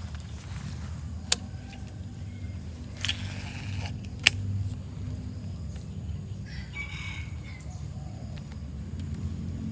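A rooster crowing, with two sharp clicks a few seconds apart earlier on.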